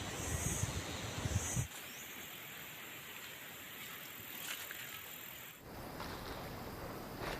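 Outdoor ambience with a steady hiss. For about the first second and a half, wind buffets the microphone with low rumbling gusts. It then drops suddenly to a quieter, even hiss, which shifts again abruptly a little before the end.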